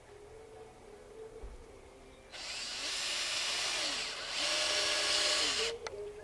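Power drill driving a screw in two runs: it starts about two seconds in, breaks briefly, runs again louder and stops near the end.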